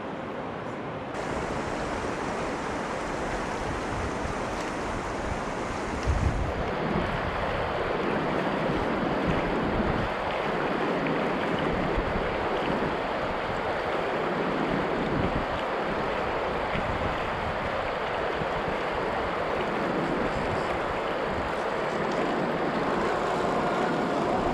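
Scale RC crawler truck driving off-road: a steady rushing noise with a few faint knocks, louder from about six seconds in.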